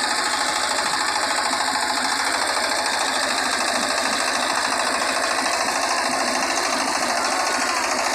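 Diesel engine of a power tiller running steadily, with a fast, even knocking beat.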